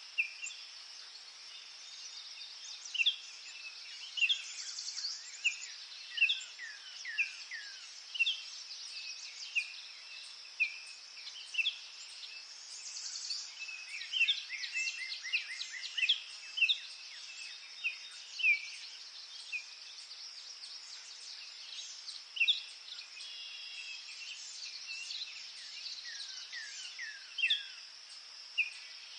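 Forest birds singing: many short chirps and down-sliding whistles, with a quick run of rapidly repeated notes about halfway through, over a steady high-pitched hiss.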